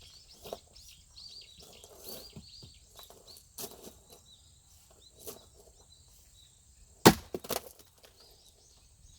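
A large axe strikes a log once about seven seconds in: a single loud, sharp crack of splitting firewood, with a quick second knock just after. Before it there are only small scattered knocks.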